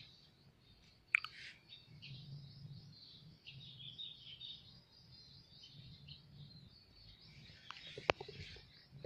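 Faint birds chirping and twittering, with a faint low hum beneath and a short sharp click near the end.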